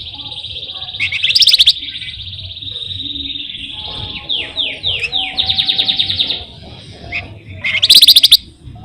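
A flamboyan songbird singing a long, high, rolling trill, broken by two loud, sharp bursts of rapid notes, about a second and a half in and again near the end, and by a few quick downward-slurred notes followed by another fast trill in the middle.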